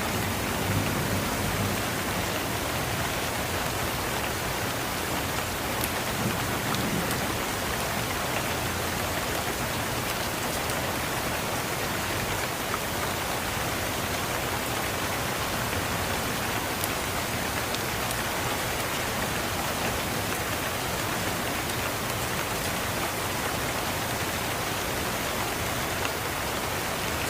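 Steady rain falling, an even hiss throughout, with a few faint sharp clicks now and then.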